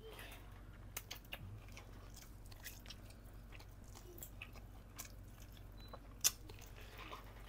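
Faint close-up mouth sounds of biting and chewing boiled chicken (tinola) held in the hand, with scattered small clicks and one sharper click about six seconds in.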